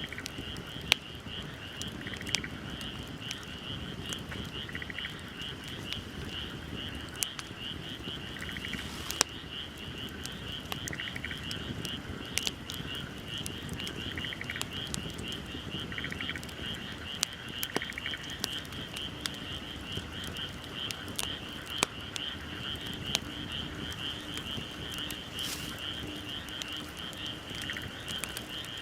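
Wood fire crackling, with irregular sharp pops and snaps over a low rumble, set against a steady high trilling chorus of night frogs, with a softer chirping call repeating every second or two.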